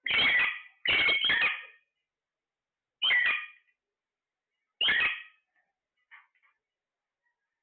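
Parrot squawking: about five loud, harsh calls, the first three close together, then a couple of fainter short calls about six seconds in.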